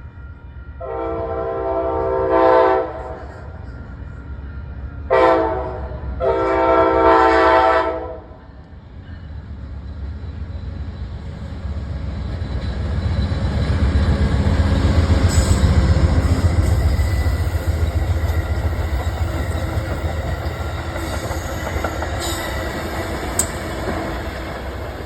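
Horn of the Amtrak Downeaster's P42DC diesel locomotive sounding a long, a short and a long blast. The train then passes with a steady low rumble of engine and wheels on rail that builds to its loudest about halfway through and slowly fades, with a few sharp clicks from the wheels.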